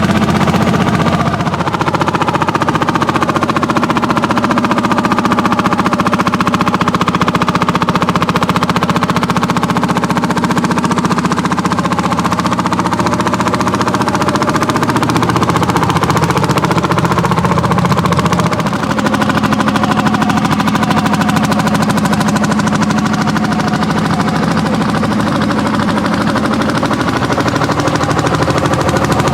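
Landini hot-bulb tractors' single-cylinder two-stroke engines running hard under plowing load, a steady, rapid, machine-gun-like beat of exhaust pulses.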